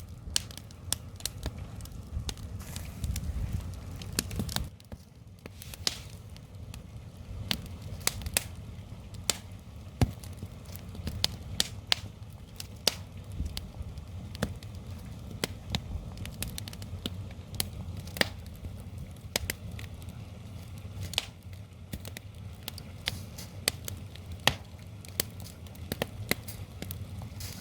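Firewood fire crackling, with irregular sharp pops and snaps over a low rumble.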